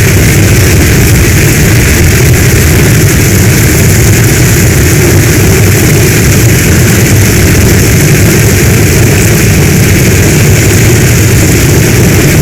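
Heavy rain falling steadily: a dense, even hiss with a low rumble beneath, unchanging throughout.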